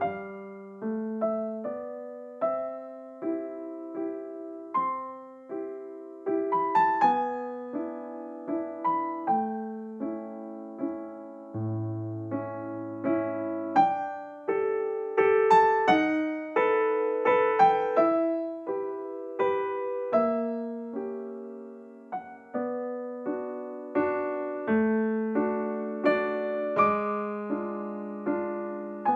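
Slow background piano music: single notes and soft chords, each struck and left to fade.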